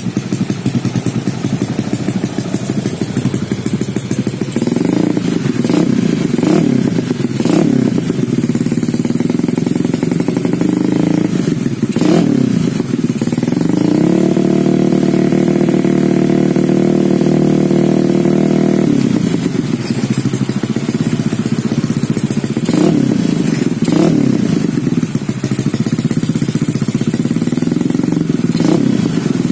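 Automatic scooter engine through an Izze Muffler aftermarket exhaust, revved from idle in repeated sharp throttle blips. About halfway through, the revs are held high for around five seconds before dropping back.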